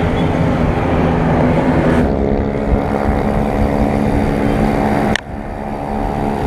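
Motor vehicle engine running steadily on the road, with wind and road noise. The first two seconds are mostly wind and road rush, then a steady engine hum comes through. There is a brief sharp dip about five seconds in.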